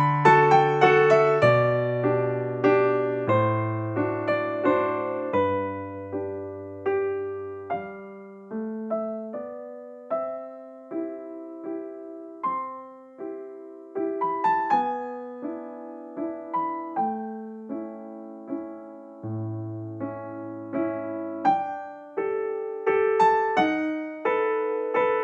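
Background music: a gentle piano piece, with a melody of single struck notes over held bass notes.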